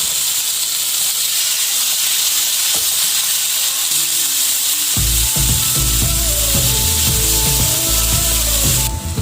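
Marinated chicken breast pieces sizzling and frying in ghee on a hot tawa, a steady hiss. About halfway through, background music comes in under the sizzle.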